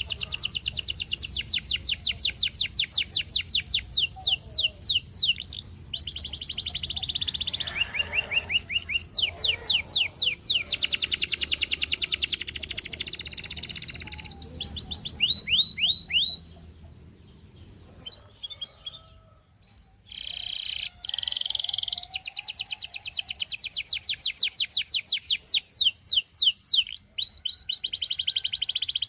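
A canary singing: long, high-pitched phrases of fast trills and rapidly repeated notes, broken by a pause of a few seconds just past the middle.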